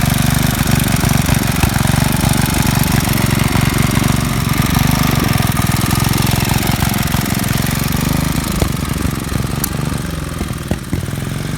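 Small gasoline engine of a garden-tractor go-kart running steadily and loudly, with a fast low chugging pulse.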